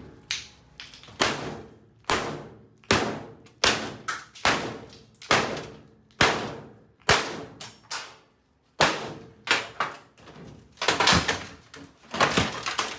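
Repeated heavy blows striking the sheet-metal cabinet of a Kenmore Elite top-load washing machine, about one a second, each with a brief ringing decay. There is a short pause about eight seconds in, then the blows come faster.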